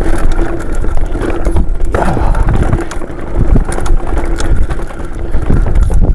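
Wind buffeting the camera microphone while a mountain bike rattles and clatters over a rough dirt trail, with many short knocks and scrapes from the tyres and frame.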